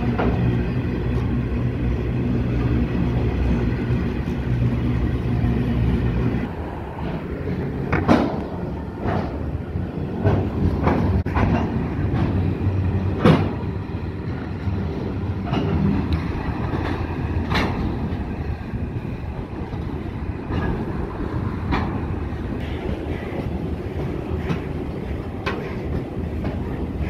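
Freight train wagons rolling past close by. For about six seconds there is a steady hum, which then abruptly gives way to rumbling wheel noise with sharp, irregular clacks of wheels over rail joints.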